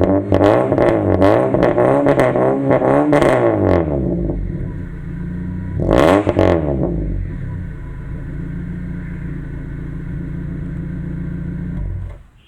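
Baleno engine through a free-flow header exhaust, blipped through a string of quick revs, then settling to idle with one more rev about six seconds in. The sound falls away suddenly near the end.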